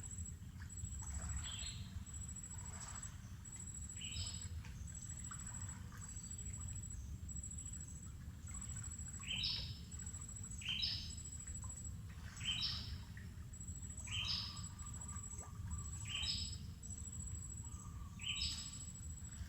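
A bird in a mangrove forest repeating a short call that slides down in pitch, about every one to two seconds and louder in the second half, over a high, thin insect buzz pulsing in short regular bursts. A steady low rumble runs underneath.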